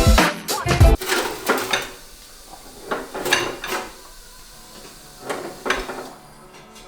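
Background music with a heavy beat cuts off about a second in. It is followed by metal clanking and rattling: a handful of separate knocks with a brief ring.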